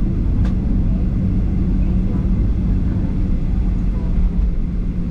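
Steady low drone inside a Boeing 737-800's passenger cabin at the gate before pushback, with a constant hum running through it. Faint passenger voices sit underneath, and there is a single small click about half a second in.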